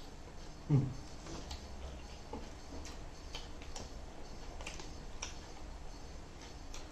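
Close-miked eating sounds: chewing with scattered sharp wet mouth clicks and smacks, roughly one a second, and one brief louder low sound about a second in.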